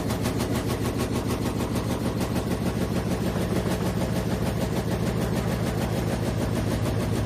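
Washing machine running with a steady low hum and a rapid, even pulsing from the spinning drum.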